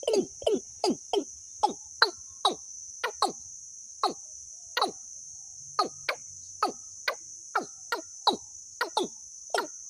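Bird calls played as a trapping lure: a string of short calls, each sliding down in pitch, coming irregularly two or three a second, over a steady high insect-like trill.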